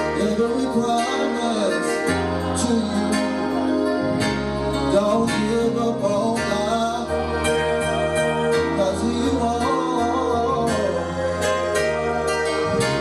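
A gospel praise song: a voice singing over band accompaniment, with bass notes changing every second or two and percussion hits.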